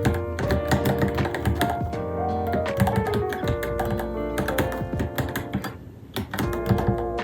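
Steady typing on a Varmilo Minilo mechanical keyboard, a quick run of key clicks that thins out briefly near the end, over background music.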